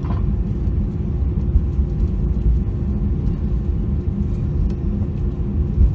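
Airbus A321 cabin noise while taxiing after landing: a steady low rumble from the engines and airframe, with a faint steady hum over it.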